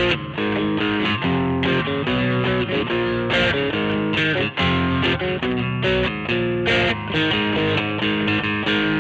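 Squier Vintage Modified Jaguar electric guitar played through an amplifier, a rhythmic chord part with the chords changing about every half second.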